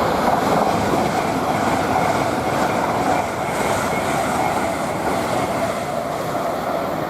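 A Hull Trains Class 802 Paragon train, two units coupled together, running through the station with steady rolling noise, loudest in the first few seconds and easing off slowly.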